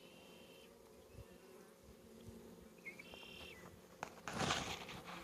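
Honeybees buzzing in a steady low hum around an open hive. A brief rustle of handling comes about four seconds in.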